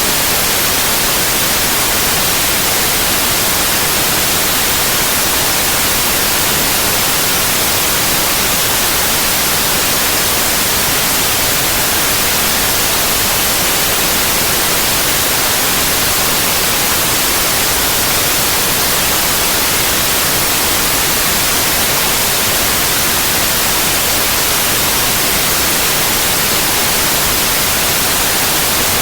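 Steady, loud white noise: an even hiss that never changes, strongest in the high end.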